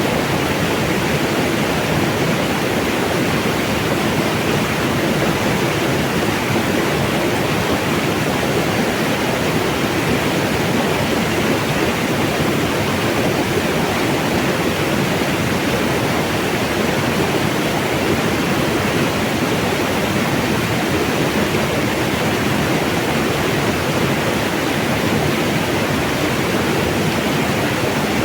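Mountain water flowing in a steady, unbroken rush.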